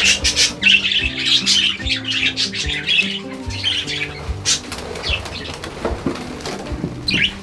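A flock of budgerigars chattering, with many quick high chirps, over soft background music of held notes and a light beat.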